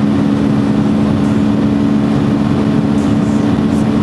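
Dirt bike engine running at a steady, unchanging pitch under an even rushing noise.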